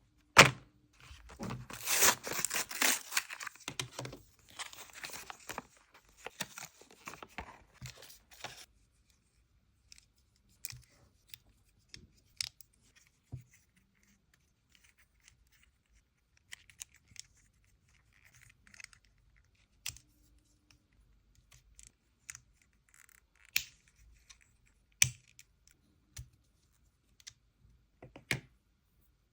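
Toy packaging being torn and ripped open for about the first eight seconds, loudest about two seconds in. Then scattered sharp clicks and short scrapes of plastic toy parts being handled, with quiet gaps between them.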